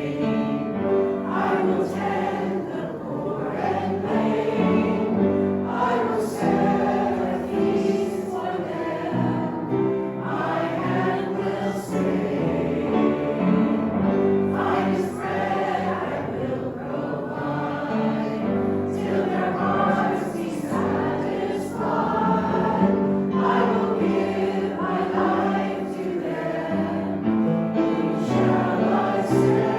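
A group of voices singing a hymn together.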